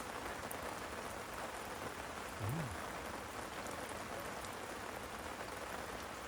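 Heavy rain falling steadily, an even hiss of drops, with one brief low hum about two and a half seconds in.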